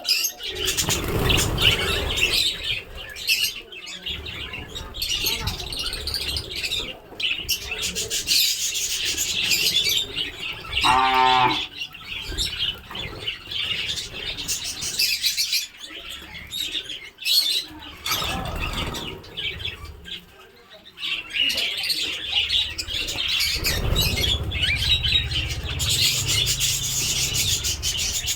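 A flock of budgerigars chattering and chirping without pause, with bursts of wing flapping and low rumbling. A short, louder call with a clear pitch stands out about 11 seconds in.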